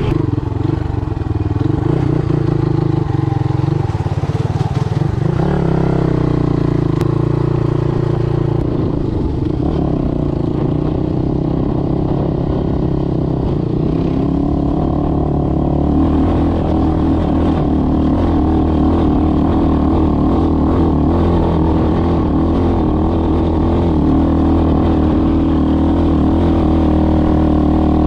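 Motoland Legend motorcycle engine running under way, the engine note shifting about five seconds in, then holding steady and slightly louder from about halfway.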